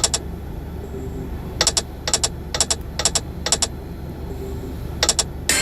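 Online slot game sound effects: a string of sharp double clicks, several in quick succession around the middle, as the reels spin and land, then a louder bright chiming burst right at the end.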